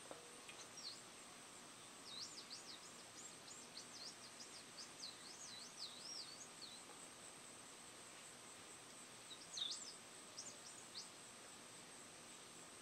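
Faint birdsong: a run of quick, high notes sweeping up and down for about five seconds, then a shorter burst a few seconds later, over quiet room tone.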